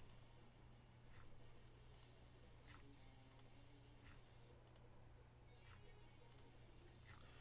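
Faint computer mouse clicks, spaced roughly a second apart, as an online list randomizer is run five times. A low, steady hum sits underneath.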